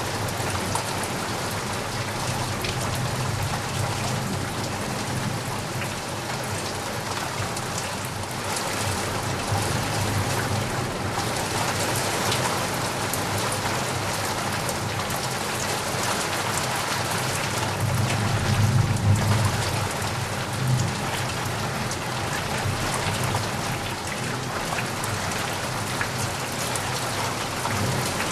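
Steady rain falling and pattering on a surface, a dense even hiss with individual drops, and a brief low rumble swelling up about two-thirds of the way through.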